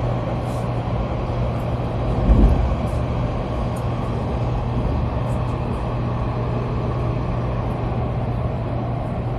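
Steady rumble of a Taiwan High Speed Rail 700T train running, heard inside the carriage, with a constant low hum. A single dull thump about two seconds in.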